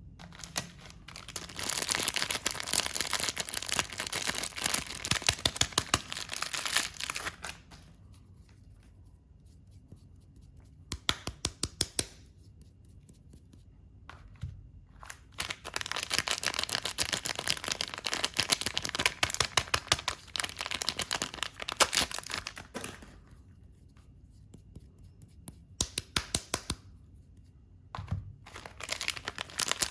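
Soap bar packaging being torn open and crinkled in several bursts of dense crackling, the two longest lasting about six to seven seconds each, with quiet pauses between.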